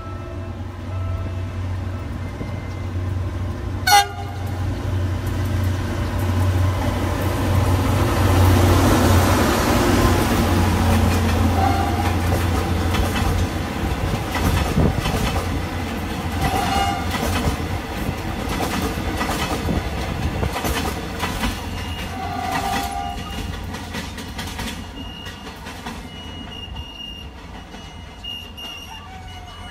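Philippine National Railways diesel-hauled passenger train approaching and passing close by. The locomotive's engine rumble builds to its loudest about ten seconds in, then the wheels clack over the rail joints as the coaches go past, and the sound fades as the train moves away. There is a sharp click about four seconds in and a few short horn toots while it passes.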